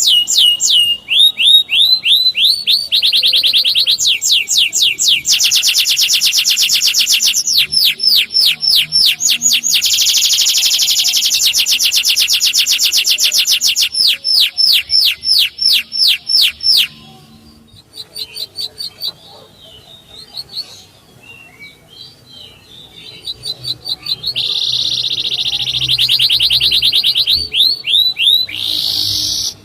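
Male canary singing in rapid rolled trills of repeated sweeping notes, phrase after phrase, with a quieter stretch of scattered short chirps in the middle before the trills resume.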